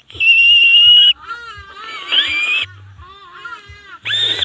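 Leaf whistle blown to imitate bird calls. It opens with a loud, steady high tone for about a second, then gives a run of shorter, quieter wavering squeals that bend up and down, and a louder bleat-like call near the end.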